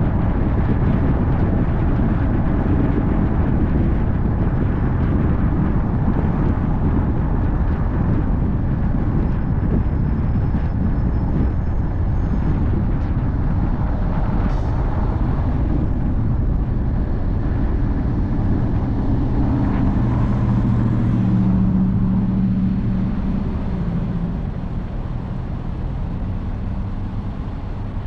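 Car driving: steady road and tyre noise with a low engine hum. A deeper engine tone comes up about two-thirds of the way through, and the noise grows quieter near the end.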